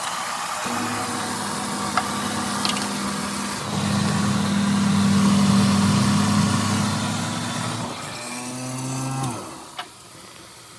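A motor running steadily with a low hum, louder in the middle and falling away near the end.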